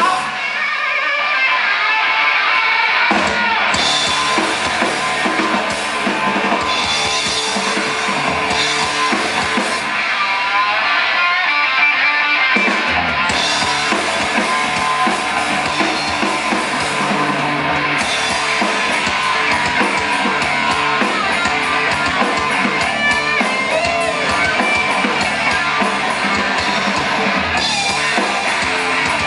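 Rock band playing live in an instrumental passage: electric guitar lines over drums and bass. The bass and drums drop away twice, for the first three seconds or so and again from about ten to thirteen seconds in, then the full band comes back in.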